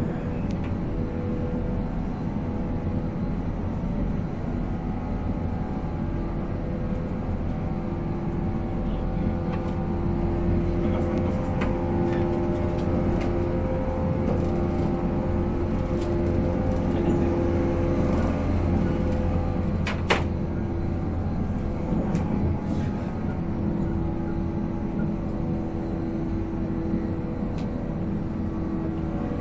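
485-series electric train running at speed, its MT54 traction motors giving a steady whine over the rumble of wheels on rail, heard from inside the car. There is a sharp click about two-thirds of the way through.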